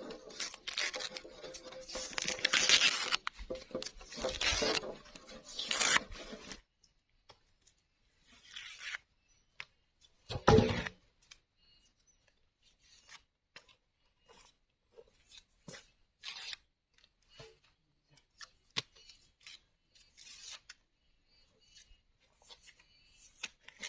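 Rasping, scraping hand work on bamboo or wood for about six seconds. After it come scattered light clicks and taps, with one louder knock about ten seconds in.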